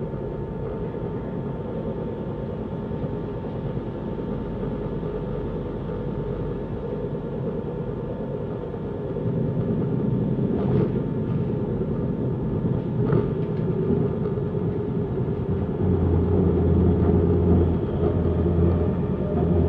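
Passenger train running along the line, heard from inside the carriage: a steady rumble of wheels on rail with a faint steady whine, growing louder about halfway through. Two short clicks come in the middle, and a deep hum joins for the last few seconds.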